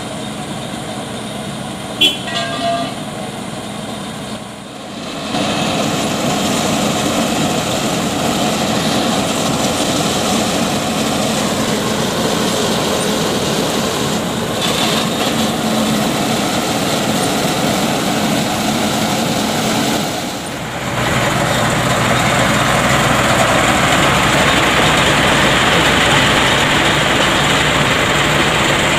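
Heavy truck engines running with road traffic noise, swelling louder about five seconds in. A short horn toot sounds about two seconds in.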